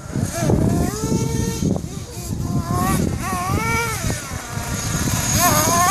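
Losi LST XXL radio-controlled monster truck's small engine revving up and down repeatedly as the truck is driven, with the pitch rising and falling several times.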